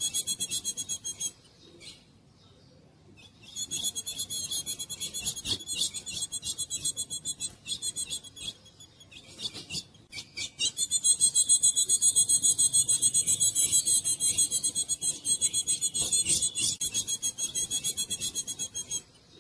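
Female azulão (ultramarine grosbeak) calling: long runs of rapid, high-pitched repeated notes, in three bouts broken by short pauses.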